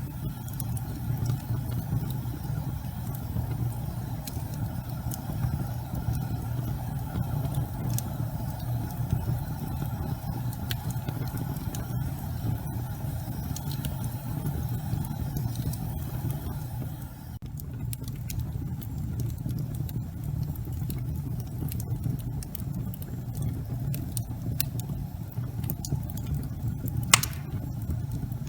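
Wood fire burning in a fireplace: a steady low rumble of flames with scattered crackles and pops, and one sharp, louder pop near the end.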